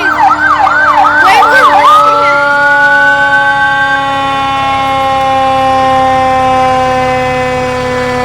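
Emergency vehicle siren, first yelping in quick up-and-down sweeps for about two seconds, then a long rising wail that fades out. Beneath it a steady pitched tone slowly drops in pitch.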